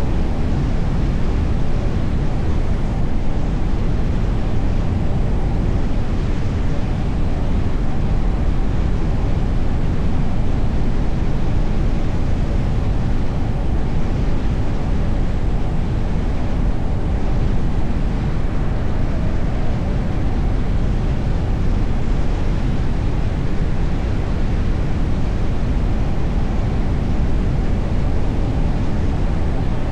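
Car driving on the road: a steady rumble of tyres, engine and wind, strongest in the low end, with no distinct events standing out.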